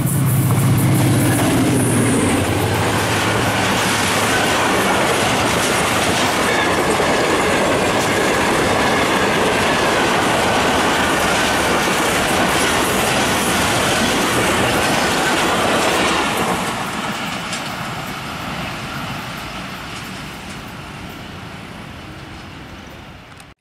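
Diesel-hauled passenger train passing at speed behind a ZCU-30 diesel locomotive: a low engine hum as the locomotive goes by in the first couple of seconds, then the steady clickety-clack of coach wheels on the rails, fading away over the last several seconds as the train recedes.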